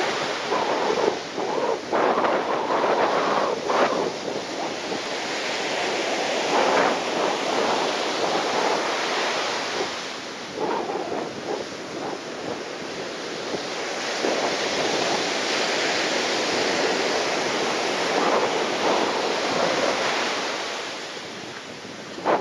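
Strong, gusty typhoon wind buffeting the microphone over the steady noise of surf, surging and easing every second or two.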